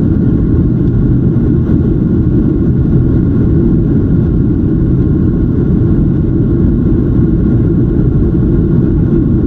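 Jet airliner cabin noise in flight: a steady, loud rumble of the engines and rushing air, with a faint higher hum over it.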